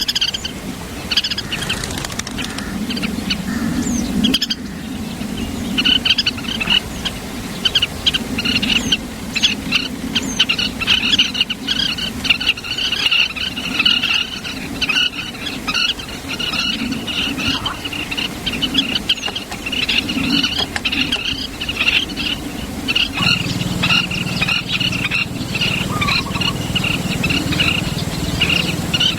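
Birds chirping: a dense, continuous run of short high chirps over a low background hum, with a steady low drone coming in near the end.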